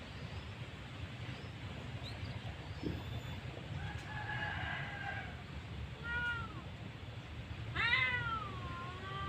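An animal calling several times: short pitched calls that rise and fall in pitch, a few about halfway through and the loudest near the end, over a steady low rumble.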